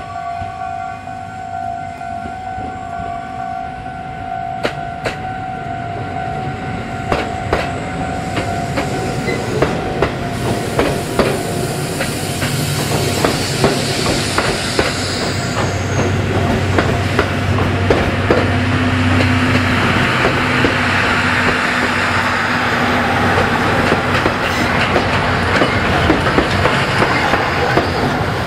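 Tobu 6050 series electric train running through a station: its wheels clack over the rail joints in quick runs of clicks, getting louder as it approaches and passes close by.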